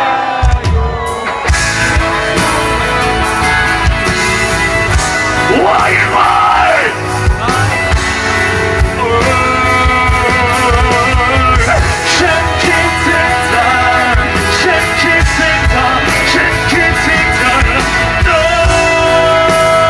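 Live rock band playing: drums keeping a steady beat under guitars and sustained instrumental notes, with singing over it. About six seconds in a note sweeps up and back down, and near the end one long note is held.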